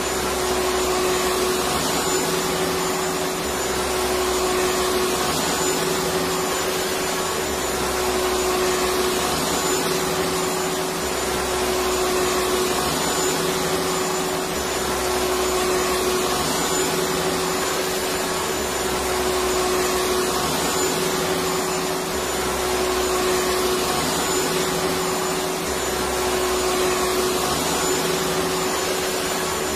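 Electric vacuum cleaner running steadily: a constant whooshing drone with a steady hum on top, and a low rumble that swells and fades every few seconds.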